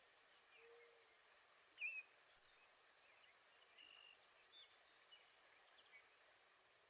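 Faint, scattered bird chirps, short high calls about once a second, over a low steady hiss.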